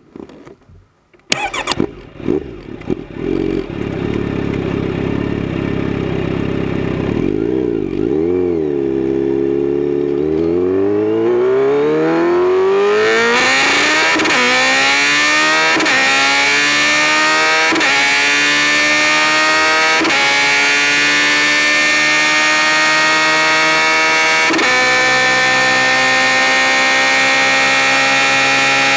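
Kawasaki Z900RS inline-four running through a Holeshot Lextek header and 10-inch Bad Boy muffler, heard from a mic under the seat. It runs low at first with a short blip, then accelerates hard, the pitch climbing and dropping at each of about five upshifts, with wind rush rising at speed.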